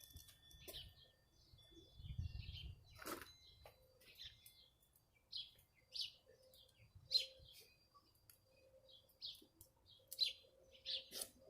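Small birds chirping faintly in the background: short, high chirps come every second or so, with a single soft knock about three seconds in.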